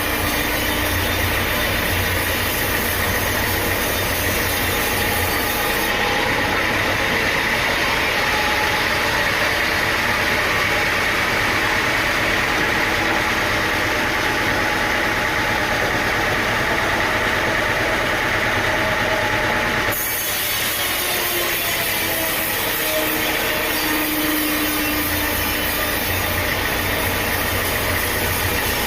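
Sawmill machinery running steadily as a saw works through timber, a continuous loud mechanical noise with faint tones that rise and fall in pitch. The sound changes abruptly about six seconds and twenty seconds in.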